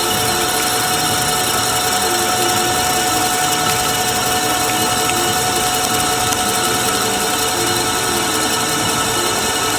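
Metalworking machine tool running steadily under power, a constant mechanical drone with several steady tones and no pauses or knocks.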